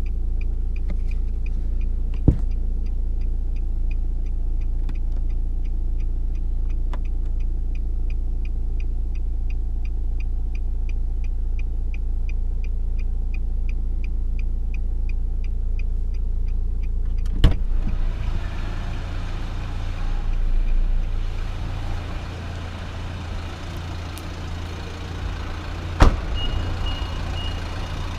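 Nissan Juke's 1.5 dCi four-cylinder turbodiesel idling with a steady low hum, under a regular light tick about three times a second. About 17 seconds in a sharp knock comes and the sound changes and drops a little; another knock near the end is followed by a short high beep.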